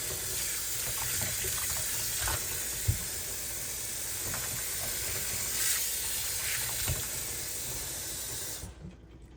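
Kitchen faucet running steadily, filling a pan with dishwater, then shut off near the end, with a couple of light knocks along the way.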